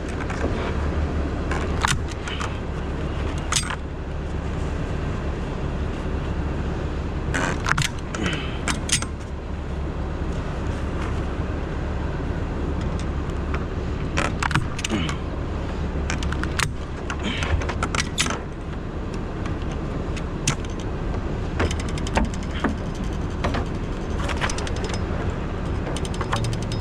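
A vehicle engine idling steadily, with irregular metallic clinks and rattles of rigging hardware being handled while a strap is put around the split tree.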